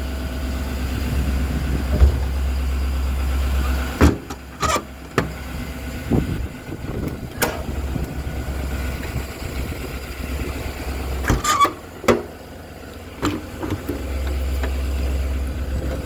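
Service-body compartment latches and doors on a Ford F550 service truck clicking and clunking as they are worked, about half a dozen sharp knocks from about four seconds in until near the end. A steady low rumble of the truck's 6.7-litre diesel idling is heard before the knocks begin and again after they end.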